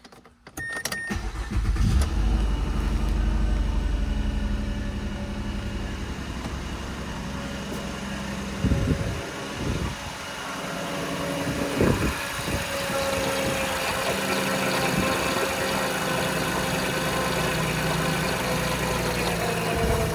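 2014 Mazda CX-9's 3.7-litre V6 engine cranking and starting about a second in, then idling steadily, with a few short louder moments in the middle.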